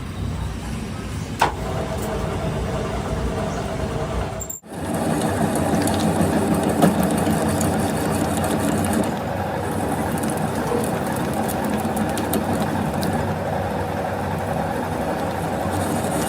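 Workshop machinery running steadily, a mechanical hum with several steady tones. It breaks off for an instant about four and a half seconds in, then carries on.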